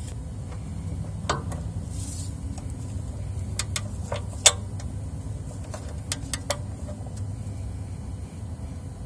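Scattered sharp metallic clicks and taps from a wrench on the oil drain plug as it is tightened slowly, the loudest about halfway through, over a steady low hum.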